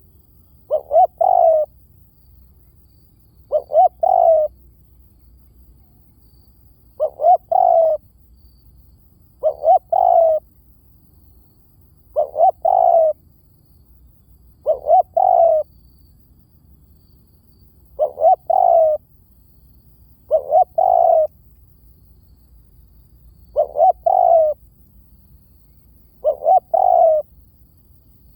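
Spotted dove cooing: about ten call phrases, one roughly every two and a half seconds. Each phrase is a couple of short notes leading into a longer coo.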